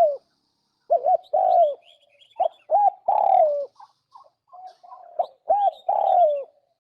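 Turtle dove cooing: three repeated phrases, each of a few short coos ending in a longer falling coo. Faint high chirps of small birds sound in the gaps.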